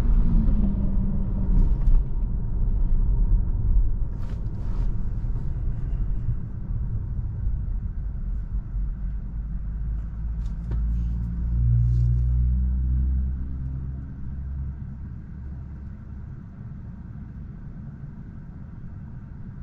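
Road and tyre noise of a Tesla electric car driving, steady and low, with a few faint clicks. A deeper hum swells about twelve seconds in, then the noise eases and stays quieter toward the end.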